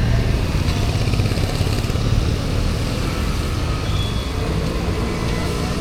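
Steady city street traffic: a continuous low rumble of passing vehicle engines under an even hiss.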